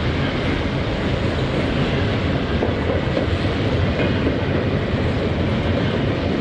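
Cars of a CSX intermodal freight train rolling past, a loud, steady noise of wheels on rail.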